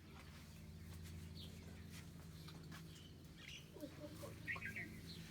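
Birds chirping faintly in short scattered calls, with a brief cluster of quick chirps near the end, over a steady low hum.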